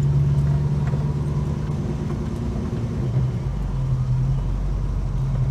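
Holden HK car's engine running at low speed while driving, heard from inside the cabin: a steady low drone that eases and turns uneven about three seconds in.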